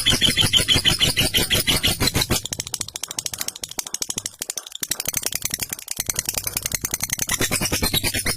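Lovebird singing its long 'ngekek' chatter: a fast, unbroken run of sharp notes that softens and thins through the middle and then comes back loud.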